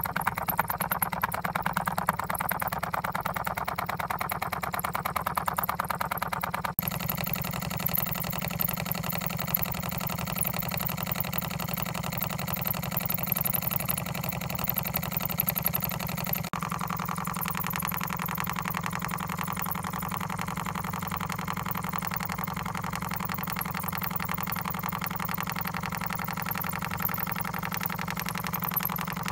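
Homemade Stirling hot-air engine running, its crank and CD flywheel turning with a fast, steady rattle of ticks. The sound changes abruptly twice, about seven and sixteen seconds in.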